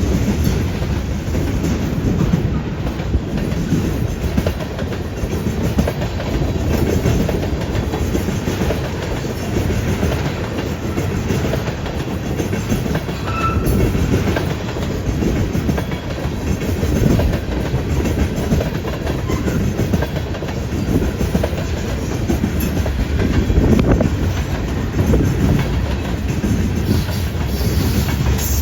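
Freight train rolling past, a steady heavy rumble with the wheels clacking rhythmically over the track.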